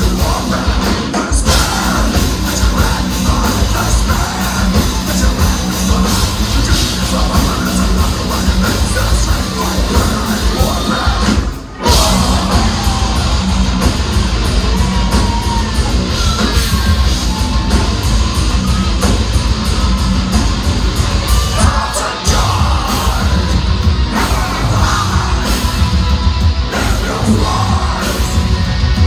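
Heavy metal band playing live, loud and dense, with shouted vocals over the band. About twelve seconds in the band cuts out for a split second and crashes back in.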